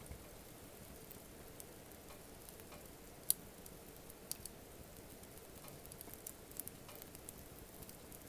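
Wood campfire crackling faintly: scattered sharp pops and ticks over a low steady hiss, the loudest pop about three seconds in.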